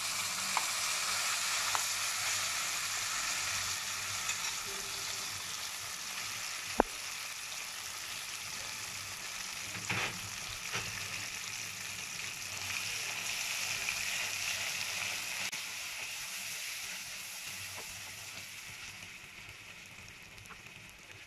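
Ground chana dal paste sizzling in hot ghee in a nonstick pot as it is stirred with a wooden spatula, with a few sharp knocks, the loudest about seven seconds in. The sizzle thins out over the last few seconds.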